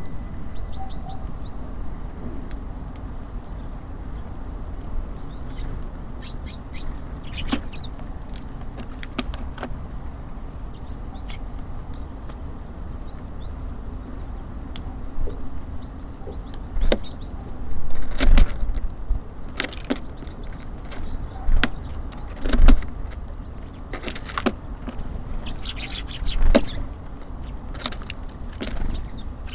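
Small songbirds at a wooden bird feeder: short high chirps and calls, with sharp knocks and taps as birds land on it and peck at the feed, the loudest clustered in the second half. Under them runs a steady low rumble of city traffic.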